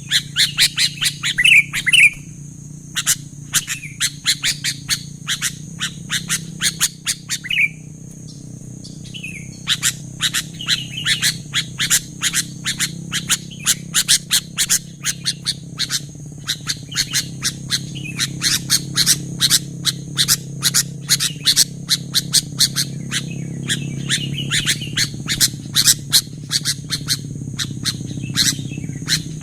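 Sooty-headed bulbul calls: rapid runs of short, sharp chirps several times a second, with a couple of brief pauses, over a steady high-pitched hiss.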